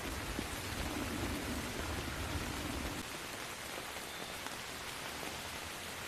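Steady rain falling, an even hiss of drops, with a low thunder rumble underneath that cuts off suddenly about halfway through.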